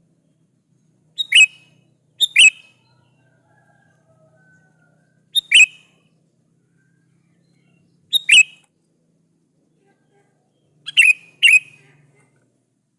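Sooty-headed bulbul (kutilang) calling: six short, sharp calls a few seconds apart, two of them close together near the end, each dropping from a high note to a lower one.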